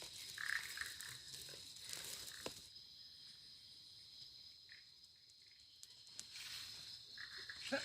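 Faint forest ambience: a steady high insect drone with scattered soft frog calls. A brief, louder pitched call comes right at the end.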